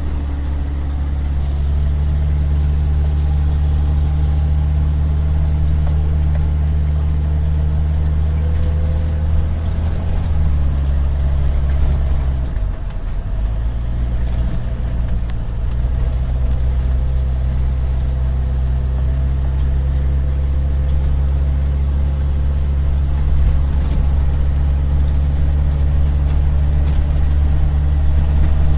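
Vehicle engine running steadily under a steady low hum while driving. About ten seconds in the engine note drops, dips briefly, and then picks back up.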